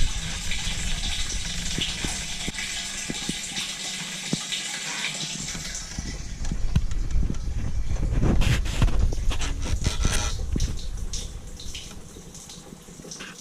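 Water gushing from a collapsible water bladder into a sailboat's bow water tank, a steady pour. It grows louder in the middle with some knocks and clatter of handling, then quietens near the end.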